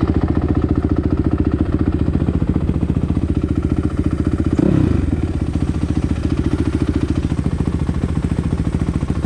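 Dirt bike engine running at low revs with a steady, even pulse, briefly louder about halfway through.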